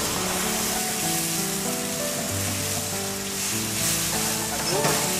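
Beef slices sizzling steadily in sauce and oil in a hot wok, with background music playing.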